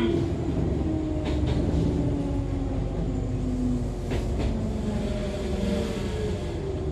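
Running sound inside an Echizen Railway MC6101-series railcar, the car known for its unusual noise, with its MT54 DC traction motors and gearing giving a whine that slowly falls in pitch as the train slows, over a low rumble from the wheels. Two faint knocks come about one and four seconds in.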